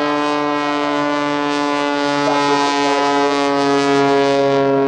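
Muscle Pitts aerobatic biplane's piston engine and propeller at full power in a low pass, a loud, steady droning note with many overtones that dips slightly in pitch near the end.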